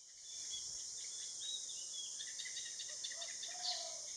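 Outdoor garden ambience: a steady high insect drone with small birds giving short chirping notes throughout, more often toward the end, and a lower whistled note about three seconds in.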